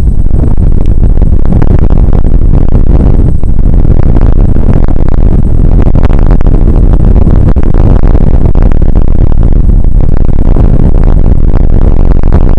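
Rain shower picked up by an outdoor weather camera's microphone: a constant, very loud rushing noise, heaviest in the lows and overloading the microphone, with many small crackles.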